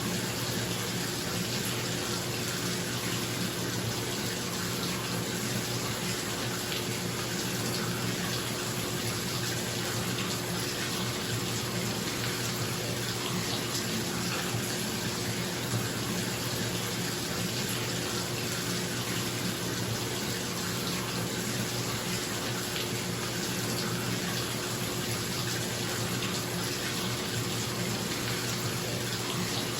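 Bathtub tap running full into the tub, a steady rush of splashing water, with a bathroom exhaust fan humming steadily beneath it.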